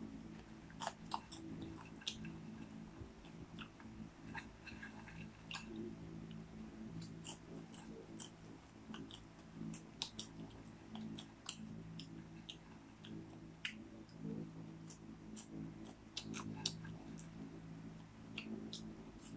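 A person chewing popcorn, with many small crisp crunches and clicks scattered throughout, over a steady low hum.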